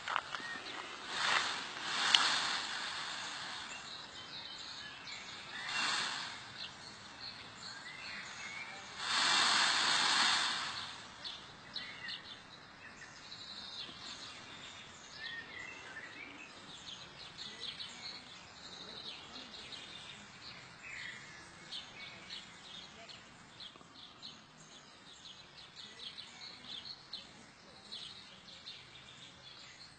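Small birds chirping in short calls and quick twitters outdoors, with several bursts of rushing noise in the first ten seconds, the longest about nine seconds in.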